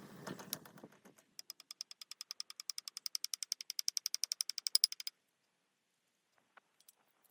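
A fast, even run of sharp clicks, about eleven a second, growing louder for nearly four seconds and then stopping suddenly, followed by a few scattered ticks.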